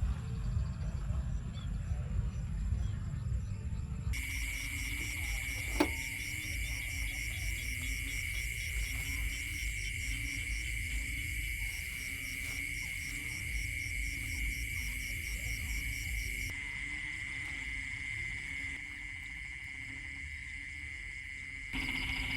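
Insects trilling steadily in a high, pulsing chorus over a low rumbling background, with one sharp click about six seconds in.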